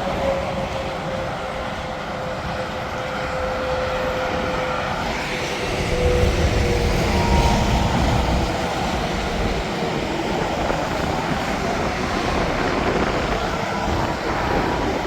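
Interstate highway traffic with semi trucks going by: steady tyre and engine noise, a tyre whine that slowly falls in pitch, and a heavier low rumble swelling about six seconds in as a truck passes close.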